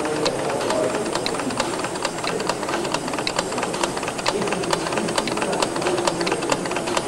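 Model steam engines running: a steady hiss with many quick, irregular clicks.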